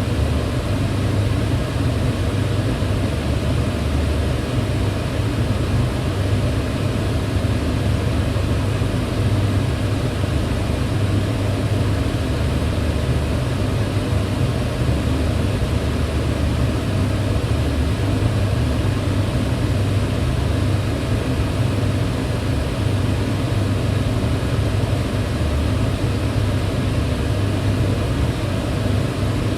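Kitchen range hood extractor fan running steadily: a constant low hum with an even airy rush of air over it.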